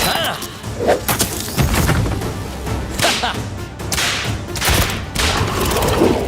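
Cartoon fight sound effects: about half a dozen quick swooshes and hits in a row, a blade slashing through monsters, over a low rumble and action music.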